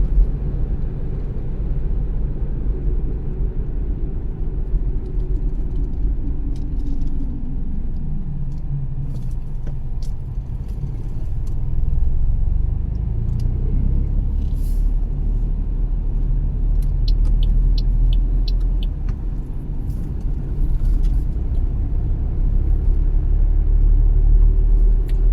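Car driving, with a steady low rumble of engine and tyres. The engine note falls about a third of the way in as the car slows, then rises again near the end as it picks up speed.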